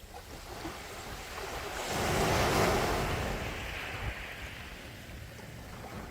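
Sea waves breaking and washing on the shore: one wave swells to a rushing peak a couple of seconds in and fades away over a low rumble of surf.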